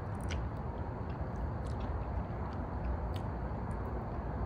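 People chewing a mouthful of food, with a few faint short clicks, over a steady low hum of the room.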